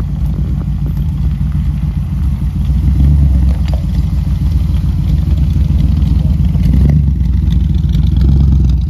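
A 1970 Dodge Challenger T/A's 340 Six Pak V8 (three two-barrel carburettors) idling with a deep rumble, blipped up briefly three times: about three seconds in, near seven seconds, and near the end.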